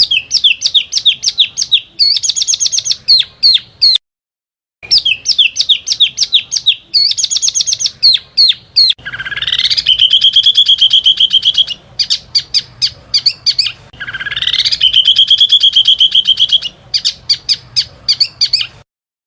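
A small songbird's rapid, high-pitched 'tembakan' song: fast runs of sharp repeated notes, and twice a trill that rises and then holds steady. Each passage plays twice, with clean silent gaps between them, as in a looped training ('masteran') recording for competition songbirds.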